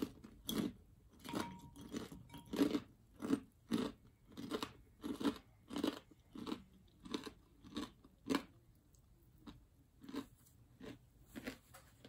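Close-up chewing of a mouthful of breaded fried cutlet and rice, in a steady rhythm of about two chews a second.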